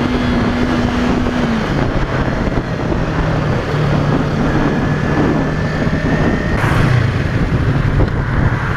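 Yamaha YZF-R3's parallel-twin engine running under way over heavy wind rush, its steady note dropping to a lower pitch about a second and a half in and holding there as the bike eases off.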